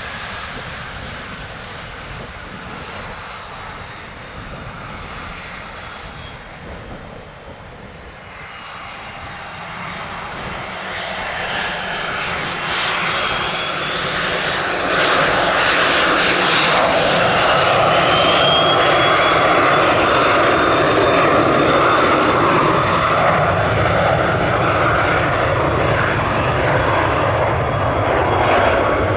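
Cessna Citation XL business jet taking off, its twin turbofans running. The jet noise grows louder from about ten seconds in, with a rising whine, then holds steady and loud.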